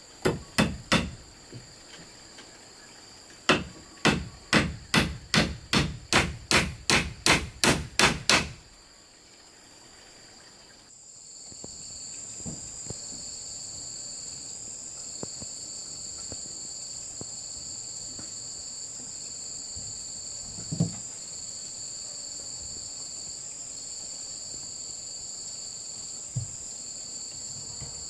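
Hard tool blows on bamboo: a quick group of four, then about fourteen evenly spaced strikes at roughly three a second. After they stop, insects chirr steadily at a high pitch, with an even pulsing.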